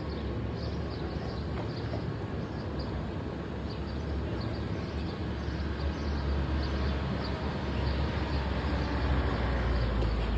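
Electric cog railway train running, a steady low rumble over a broad noise that grows slightly louder toward the end.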